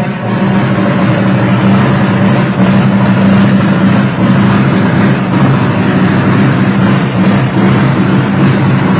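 Chevrolet car engine running loud and steady at an even speed, its pitch holding without revving up or down.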